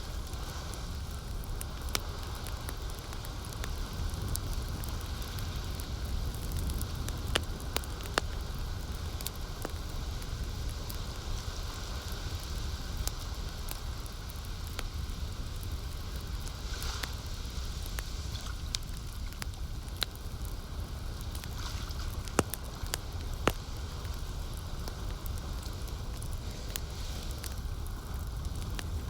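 Campfire crackling with scattered sharp pops over a steady low rumble of lapping lake water.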